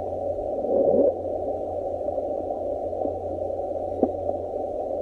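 Underwater ocean sound recording: a steady, muffled rushing noise with a low hum beneath it, a faint rising sweep about a second in and a couple of brief clicks later on.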